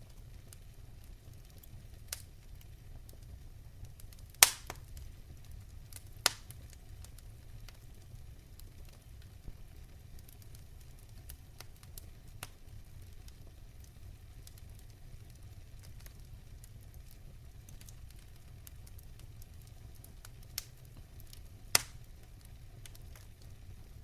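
Wood fire burning in a fireplace: a steady low rumble with scattered sharp crackles and pops, three of them loud, the biggest about four and a half seconds in.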